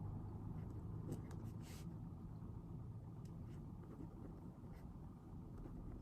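Pen writing on paper: scattered light taps and scratches, one slightly longer stroke about two seconds in, over a steady low room hum.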